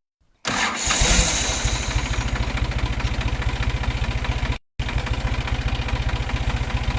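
New Holland 47 HP tractor's diesel engine running at idle close by, with an even, fast knocking pulse; it comes in abruptly about half a second in, and the sound drops out for a moment a little past halfway.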